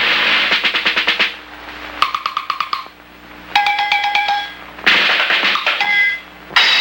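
Sound effects: short runs of rapid clicking at about ten clicks a second, one of them over a steady tone, followed by bursts of chiming, beep-like electronic tones.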